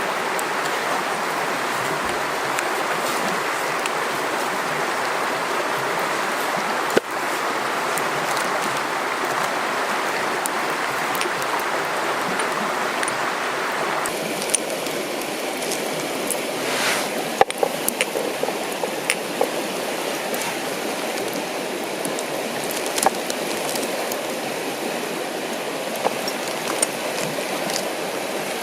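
River water running steadily. About halfway through the sound changes abruptly and scattered sharp clicks and ticks appear over the flowing water.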